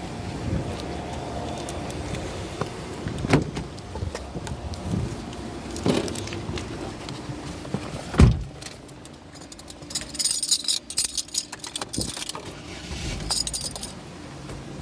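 Tunnel car wash machinery working over a car: a steady background with several dull thuds, the loudest about eight seconds in, then bursts of rapid, high-pitched rattling patter.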